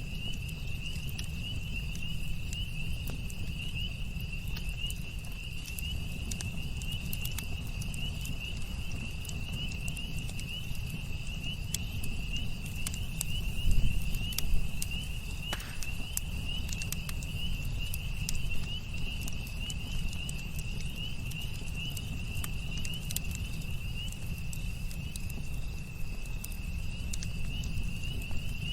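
Campfire crackling with sharp pops scattered through, over a low rumble of the flames. A steady high chorus of night insects trills throughout, with a louder shift of the fire about halfway through.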